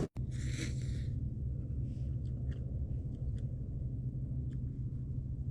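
Steady low rumble of a small camper van driving, heard from inside the cab, with a few faint light clicks.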